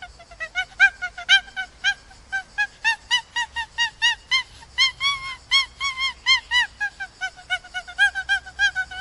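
An animal calling in a long, rapid run of short, honking calls, about four a second, rising a little in pitch midway and settling back.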